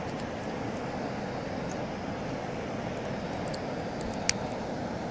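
Steady rush of river water, with a single sharp click about four seconds in.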